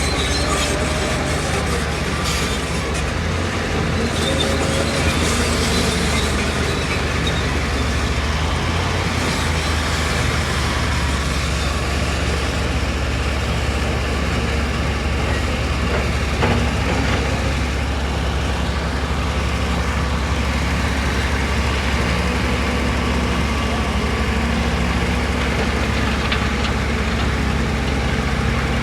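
Heavy construction machinery's diesel engine running steadily with a deep rumble, and a single sharp knock about halfway through.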